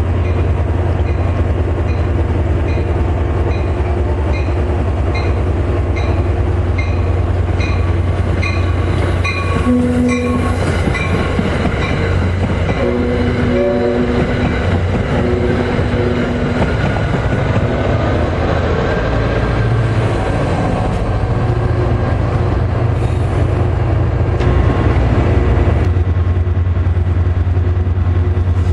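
Train running close by with a steady heavy rumble. A bell dings steadily for about the first ten seconds, and short horn blasts sound around the middle.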